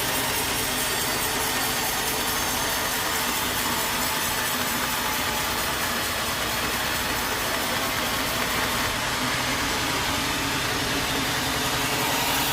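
Sawmill engine running steadily at a constant pace, with an even hiss.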